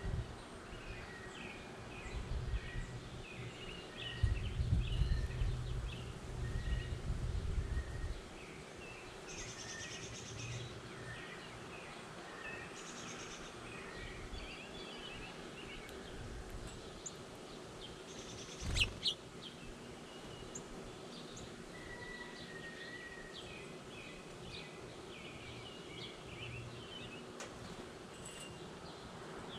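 Several wild birds chirping and singing, with many short calls overlapping. Low rumbling comes from about 2 to 8 seconds in, and a single sharp tap sounds about two-thirds of the way through.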